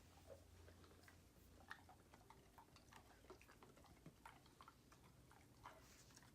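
Faint, irregular crunching and clicking of dogs chewing hard treats.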